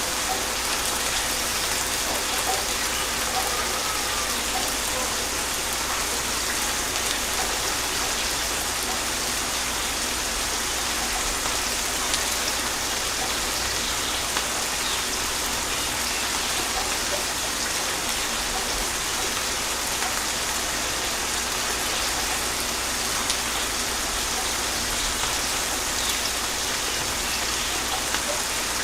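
Steady gentle rain falling on surfaces, an even hiss with scattered drop ticks and no thunder.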